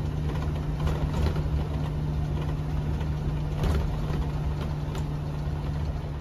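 Motorhome on the move: a steady engine and road drone with a constant low hum, and a few light knocks or rattles.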